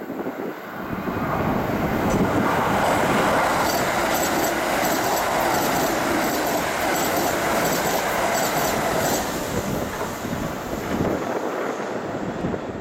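Kintetsu limited express electric train passing through the station at speed. A loud, steady rush of wheels on rail builds over the first two seconds, holds with clattering from the wheels, then eases off in the last few seconds as the train moves away.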